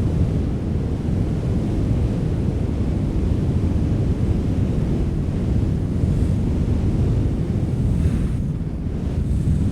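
Steady wind, a low rushing rumble that eases slightly for a moment near the end.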